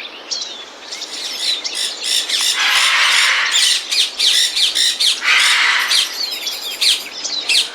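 Alexandrine parakeet calling: a stream of quick chirps and short whistles, with two longer harsh screeches, about three seconds in and again past five seconds.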